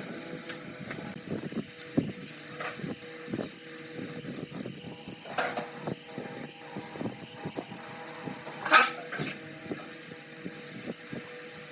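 Irregular knocks and taps of woodworking by hand, over a steady hum, with one louder sharp noise about nine seconds in.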